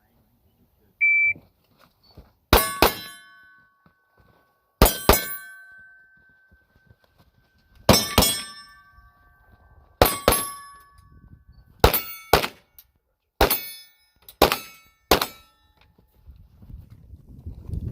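A shot-timer beep, then pistol shots on steel targets: most shots are followed a fraction of a second later by the ding of a hit plate ringing, in about eight bang-and-ding pairs a couple of seconds apart that come faster towards the end.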